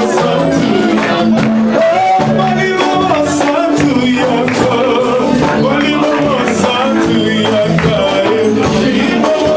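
Gospel worship music: voices singing over bass and keyboard, with shaken percussion such as tambourine keeping the beat.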